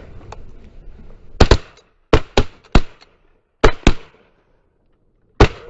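Shotguns fired in a rapid volley from more than one gun: about eight shots in four seconds, some in close pairs, the first about a second and a half in and the last near the end.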